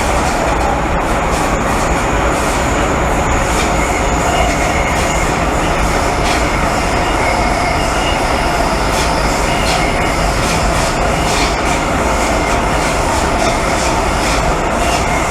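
Interior of an MTR M-Train subway car running steadily along the track: a continuous rumble of wheels and running gear, with faint steady squealing tones and scattered short clicks.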